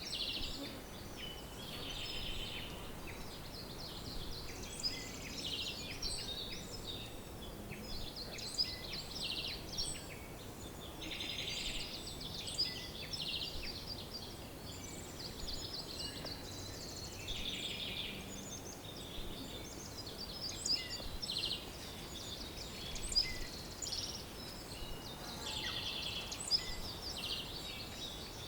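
A chorus of songbirds: many birds singing and chirping at once, with overlapping quick trills and high short notes, over a faint hiss.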